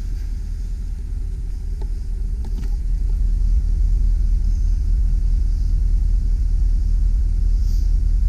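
Low steady rumble of the GMC Sierra 3500 HD's 8.1-liter V8 idling, getting louder about three seconds in.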